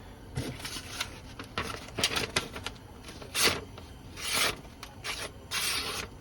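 Knife blade drawn by hand along a strop loaded with green honing compound: several short, rasping strokes at an uneven pace, the loudest about halfway through, as the edge is refined.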